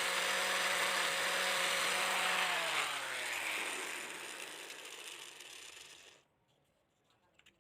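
A small electric power tool's motor running steadily, then switched off and spinning down, fading away over about three seconds.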